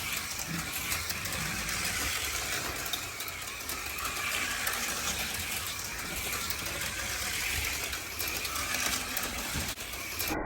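HO-scale slot cars running on the track: small electric motors whirring steadily at speed, with a light mechanical rattle.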